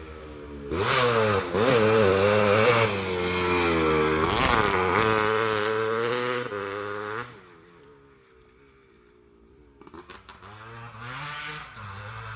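Motorcycle with a racing exhaust being revved: a long run of repeated throttle blips rising and falling in pitch, dropping back to a faint idle about seven seconds in, then revved again near the end.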